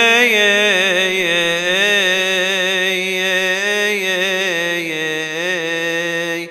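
A solo male voice chanting a Coptic Orthodox hymn in long, melismatic held notes with wavering ornaments. The voice stops at the very end, as the singer pauses for breath.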